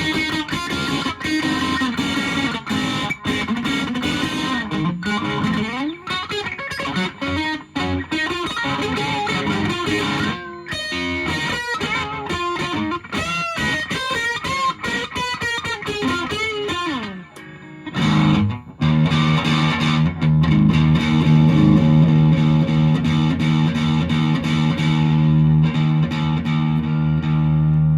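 Electric guitar (Fender Jazzmaster) played through a 1985 Japanese-made Boss DS-1 distortion pedal into an ELK FSB-45 amplifier, picked up by a smartphone microphone with no processing. For the first part it plays lead lines with string bends and vibrato. After a short break about two-thirds of the way in, it lets a chord ring and sustain steadily.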